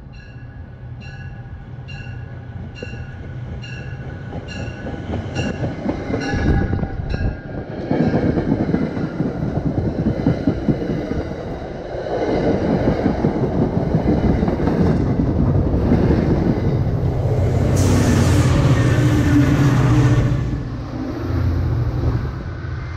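MBTA commuter rail push-pull train passing close by, cab car first. A bell rings steadily about twice a second as it approaches, then gives way to the heavy rumble of the passing coaches on the rails. The noise is loudest as the diesel locomotive at the rear goes by, and eases near the end as the train draws away.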